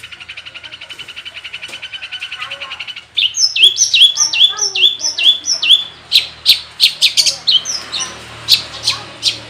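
Long-tailed shrike (cendet) singing a varied, mimicry-filled song. A fast, even trill for about three seconds breaks into a loud run of repeated down-slurred whistles, about three a second, then sharp, clipped notes.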